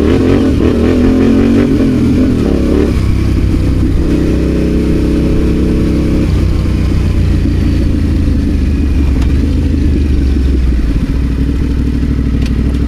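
Adventure motorcycle engine running under way off-road, its note stepping down about three seconds in and again about six seconds in as the throttle or gear changes.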